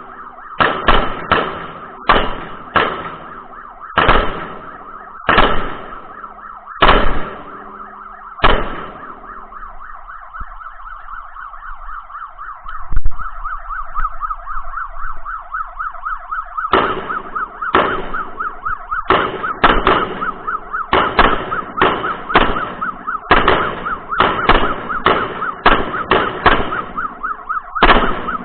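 A string of gunshots fired in quick irregular succession, with a pause of several seconds in the firing about ten seconds in, over a siren warbling rapidly and continuously.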